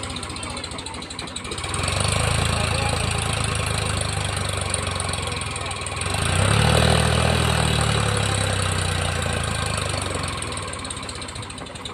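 Diesel engine working under load. It runs louder about two seconds in, surges again around the middle, then eases off toward the end.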